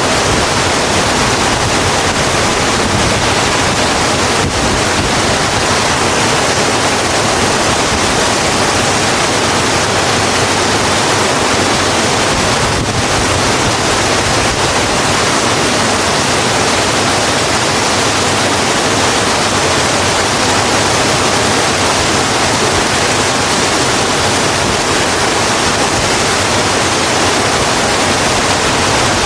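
Rain falling steadily on a road, an even, unbroken hiss with no single drops or thunder standing out.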